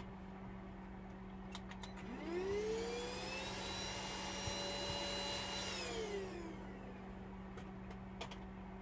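A small electric motor spins up over about a second, runs at a steady pitch for about three seconds, then winds down. A steady low hum runs underneath, with a few light clicks before and after.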